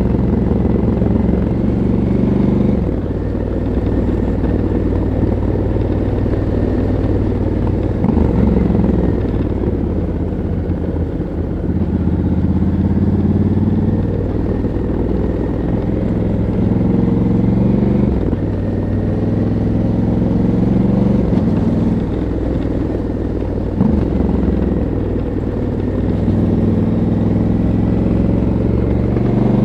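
Stock 2022 Honda CRF1100L Africa Twin's 1084 cc parallel-twin engine and exhaust under way at low to moderate revs. The pitch drops and climbs again several times as the throttle is closed and reopened through slow riding.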